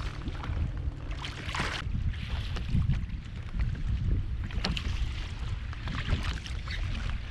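Wind rumbling steadily on the microphone aboard a small kayak, with scattered small knocks and clicks and a brief hiss about a second and a half in.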